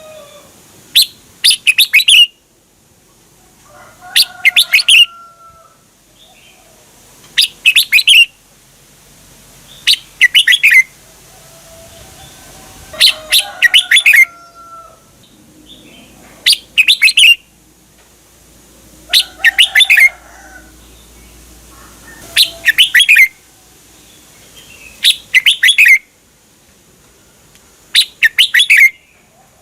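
Red-whiskered bulbul singing its short, loud song phrase over and over, about every three seconds. Each phrase is a quick run of several notes. Fainter, lower bird calls fill the gaps between phrases.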